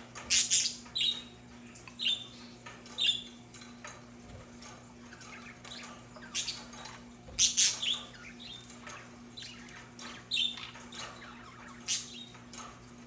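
Budgerigars chirping: short, sharp calls, singly and in little clusters every second or two, over a faint steady low hum.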